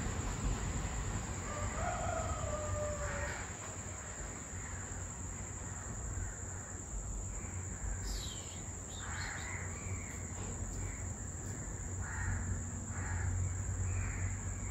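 Faint bird calls in the background: one gliding call about two seconds in, then a series of short calls from the middle to near the end, over a steady low hum and a thin high whine.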